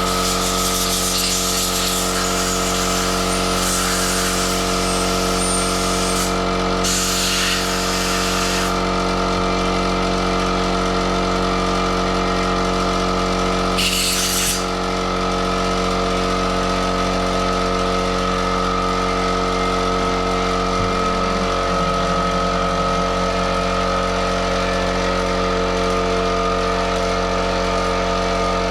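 Small air compressor's motor running steadily as it refills its tank, with two short hissing blasts of compressed air from a blow gun, one about seven seconds in and a briefer one about fourteen seconds in.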